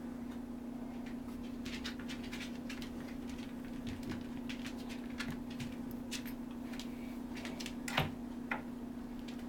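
Cairn Terrier puppies and their mother stirring about: scattered faint ticks and scratches, a little more distinct about eight seconds in, over a steady low hum.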